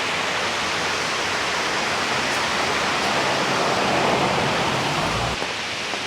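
Steady rushing hiss of a waterfall, water pouring over rock ledges.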